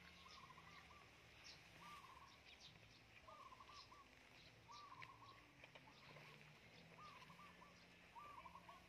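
Faint bird calls: a short trilled call repeated about every one to one and a half seconds, with brief high chirps in between.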